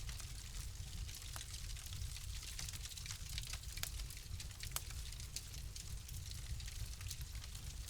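Wood fire in a fireplace crackling, with scattered sharp pops at irregular intervals over a low, steady rumble of the flames.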